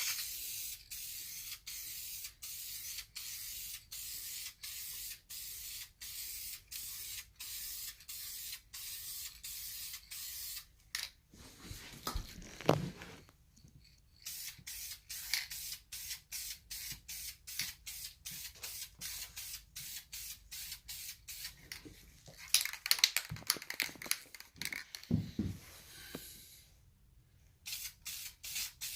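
Aerosol can of wrinkle-finish spray paint hissing as a coat goes onto a valve cover, broken by quick regular gaps about three times a second. It pauses twice, with a few brief knocks and rattles in the pauses.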